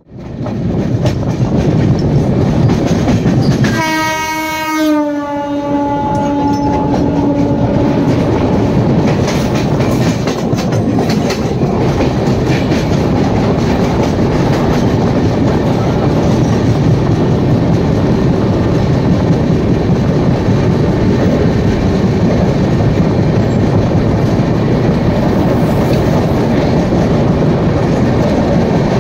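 Indian Railways express running at speed, its wheels rumbling on the track, while a passenger train goes by on the next track. About four seconds in a train horn sounds, its pitch dipping once as it passes, then fades over the next few seconds; clickety-clack of wheels over rail joints continues under it.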